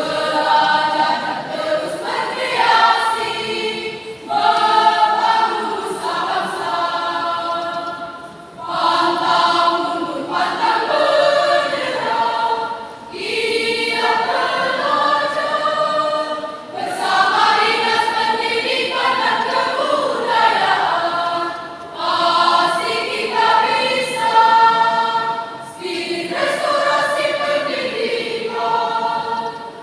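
High-school choir singing, in sung phrases of a few seconds each with short pauses between them.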